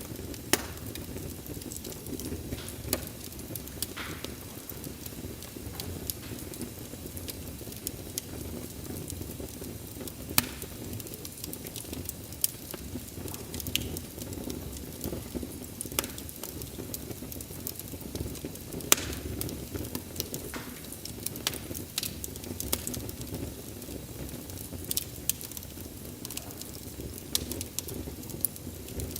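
Wood fire burning with a steady low rumble and irregular sharp crackles and pops from the burning logs, one pop near the middle standing out as the loudest.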